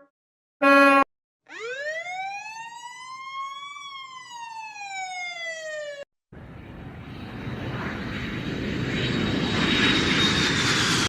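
A short horn blast, then a siren making one slow wail: it rises for about two seconds, falls for about two, and cuts off. Then a rushing noise with a faint high whine swells steadily louder.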